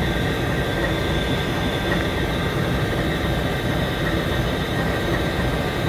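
CSX diesel locomotive No. 156 idling: a steady low engine rumble with faint steady high tones over it.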